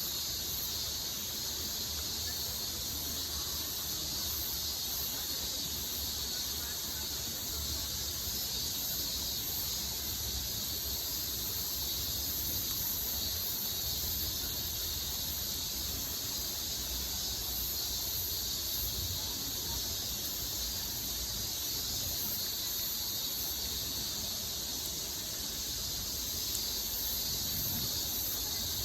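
Steady high-pitched insect chorus that shimmers without pause, over a low steady rush of river water.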